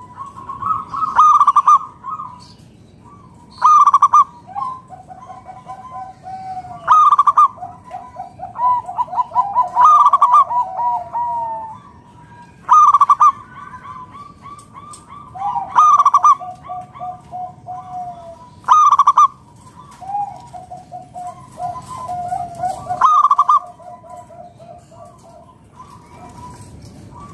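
Zebra dove (perkutut) cooing: a loud coo phrase about every three seconds, with lower, rolling trilled coos between them.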